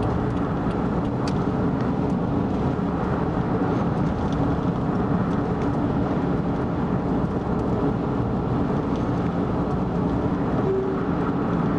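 Car travelling at expressway speed: a steady rumble of tyres and engine that holds the same level throughout.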